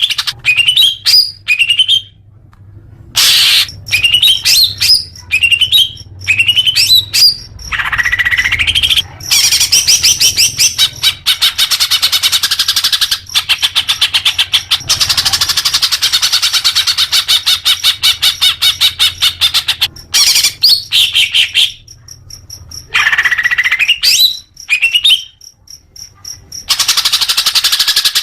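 Green leafbird (cucak hijau) singing loudly: a run of quick rising whistled notes, then from about nine seconds a long fast rapid-fire chatter lasting about ten seconds, and more rising notes near the end.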